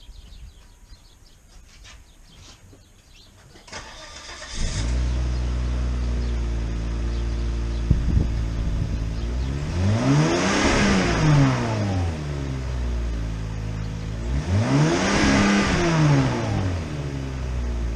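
2000 Volvo S80 started about four seconds in, heard through its stock cat-back exhaust with the catalytic converters still on. It settles into an idle and is revved twice, the pitch rising and falling each time.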